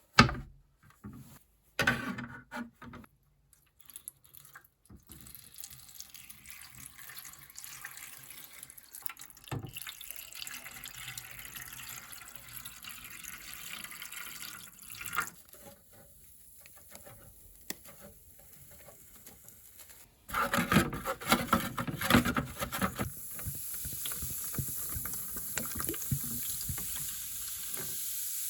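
Water running and being poured, with a few knocks near the start and a louder splashing stretch about twenty seconds in.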